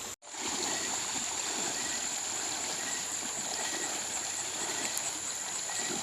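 Flowing river water, a steady rush with a steady high-pitched tone over it. It begins after a brief dropout just after the start.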